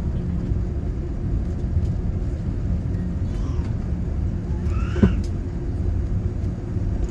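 Steady low rumble inside the cabin of a Boeing 787-9 on the ground just after landing, with one brief sharp sound about five seconds in.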